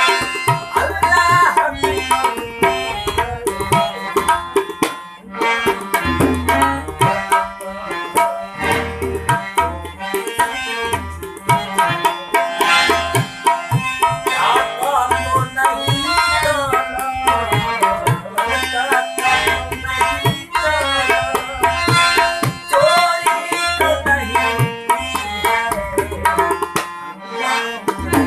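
Ghazal music: tabla playing a steady rhythm, its bass drum thumping low, under a melody line that bends in pitch.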